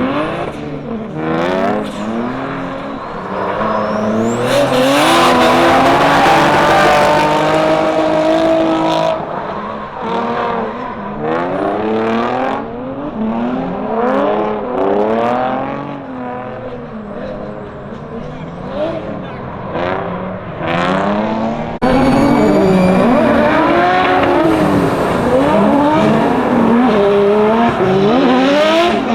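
Drift cars at full effort: engines revving up and down again and again, with tire squeal. About three-quarters of the way through, the sound jumps suddenly louder.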